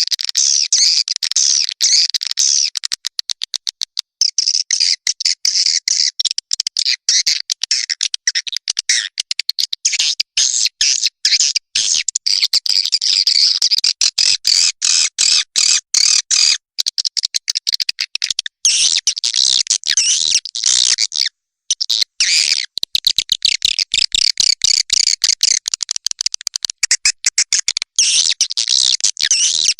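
Swiftlets twittering in a dense, high, chattering chorus of rapid choppy calls with brief gaps. This is a recorded lure call played in swiftlet houses to draw the birds in to roost.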